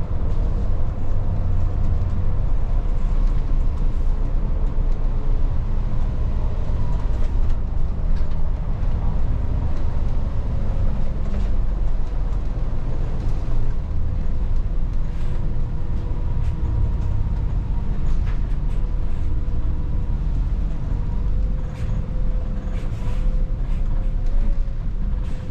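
Volvo 8900 bus driving, heard from inside the cabin: a steady low rumble of engine and road, with a faint whine that drifts slowly in pitch and light scattered rattles.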